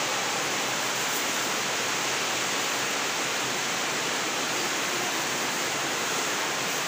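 Heavy rain falling: a steady hiss.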